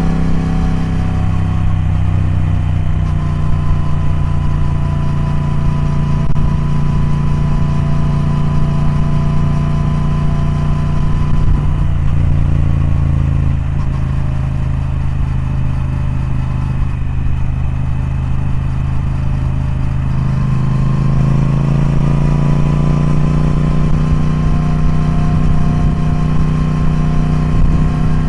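Triumph Speed Twin parallel-twin engine running. Its note falls over the first couple of seconds and settles lower, then rises again about twenty seconds in and holds at the higher pitch.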